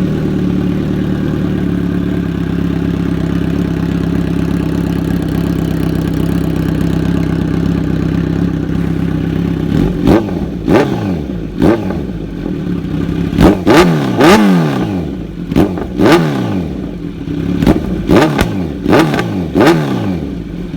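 2017 Kawasaki Z900's inline-four engine through Arrow headers and an SC Project S1 titanium slip-on with the dB killer removed, warm: it idles steadily for about ten seconds, then is revved in a string of quick throttle blips, each rising and falling. Loud, with a deep tone and pops under throttle.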